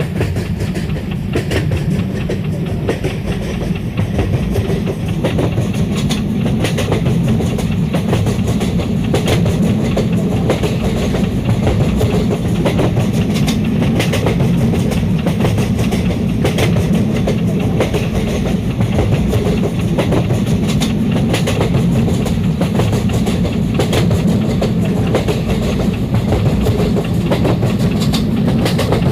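Diesel train running: a loud, steady low rumble with many short sharp clicks and clatters throughout.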